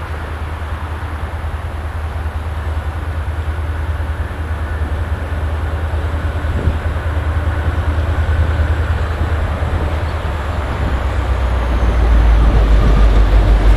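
Diesel-electric locomotive of a Coaster commuter train approaching, its low engine rumble growing steadily louder and rising sharply about twelve seconds in as it draws near.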